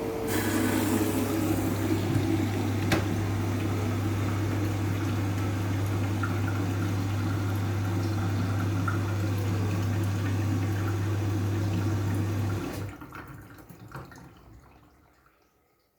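Washing machine moving water, a steady low electric hum under a rush of water. It cuts off abruptly about three-quarters of the way through, and the last of the water trickles away to quiet.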